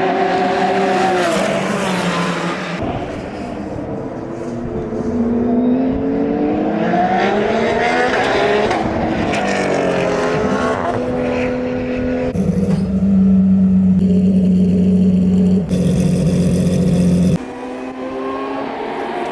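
Porsche 911 GT3 R Rennsport's naturally aspirated 4.2-litre flat-six racing engine at high revs, its note falling and climbing again and again through gear changes. About two-thirds of the way through it holds one steady note for several seconds. The sound cuts abruptly from shot to shot.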